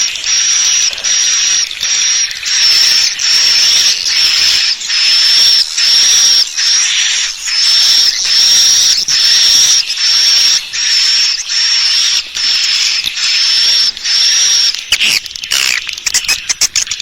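Swiftlet lure call: a steady run of high, twittering chirps, about one a second with short gaps. Near the end comes a quick rattle of clicks. This is the kind of call played to draw swiftlets into a nesting house to roost.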